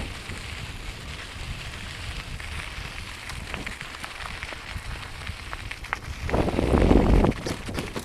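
Riding a Specialized Camber 29er mountain bike on a dirt trail: wind buffeting the microphone over tyre noise on dirt and gravel, with scattered small ticks and crunches. A stronger low rush of wind comes about six seconds in and lasts about a second.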